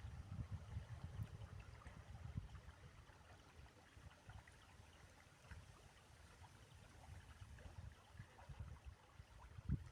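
Faint trickling stream under a fluctuating low rumble, with a soft thump near the end.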